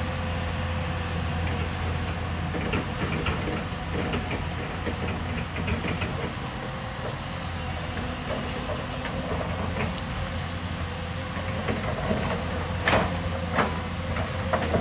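Hyundai excavator's diesel engine running steadily under load, with scattered metal clanks and rattles; a few louder knocks come near the end.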